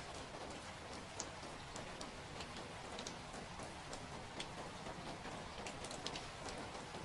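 Steady rain falling, with scattered single drops tapping at irregular moments.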